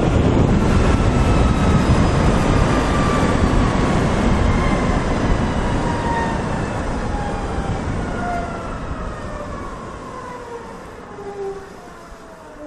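Wind rushing over the rider and a faint whine from an electric motorcycle's drivetrain, the whine gliding steadily down in pitch as the bike slows, and both fading toward the end.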